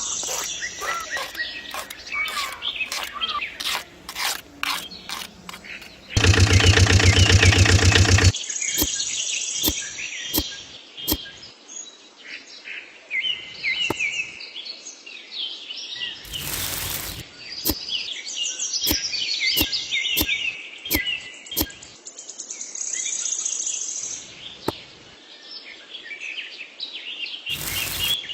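Birds chirping and trilling, with scattered clicks. About six seconds in, a loud, rapidly pulsing buzz lasts for about two seconds, and two shorter loud bursts of noise come later, one near the end.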